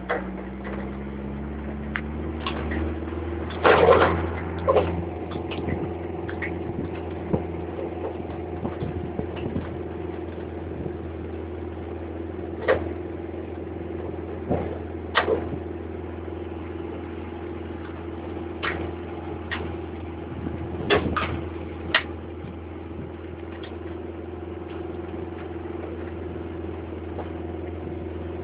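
Vehicle engine running steadily while driving, its pitch rising over the first couple of seconds as it picks up speed. Scattered knocks and rattles from the vehicle on a dirt road, the loudest about four seconds in and again around twenty seconds in.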